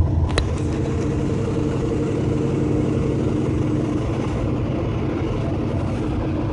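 Semi truck's diesel engine running, heard from inside the cab: a steady drone with a couple of steady tones that fade out about four seconds in. A single sharp click comes just after the start.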